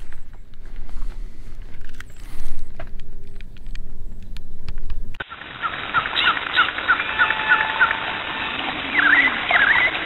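Low rumble with scattered clicks, then about five seconds in an abrupt cut to a bird chirping a quick run of short notes over a steady hiss, with a couple of louder calls near the end.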